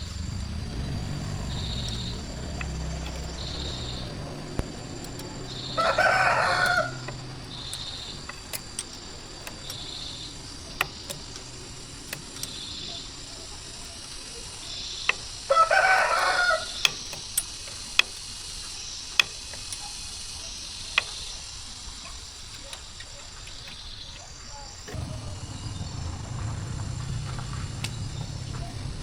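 A rooster crows twice, about six seconds in and again about fifteen seconds in, each call lasting about a second. Sharp knocks come scattered through the middle. A low hum is heard at the start and again near the end.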